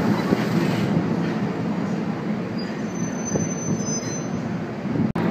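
NJ Transit Multilevel bilevel passenger coaches rolling past along the platform: a steady rumble of steel wheels on rail.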